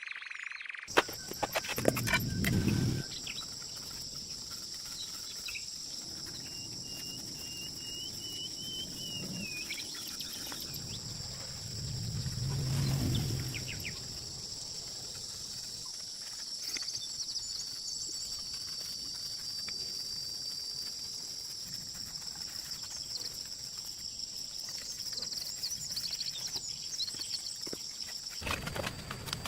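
Outdoor ambience: a steady high insect drone, with a short bird call about seven seconds in. A few clicks come early, and low rumbles swell twice, about two and thirteen seconds in.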